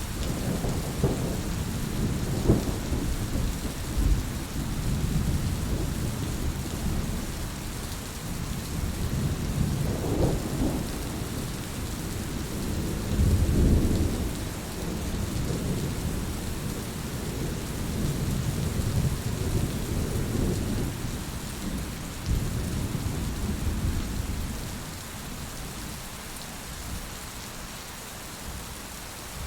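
Heavy rain falling steadily, with low rolling rumbles of thunder coming and going; it grows quieter over the last few seconds.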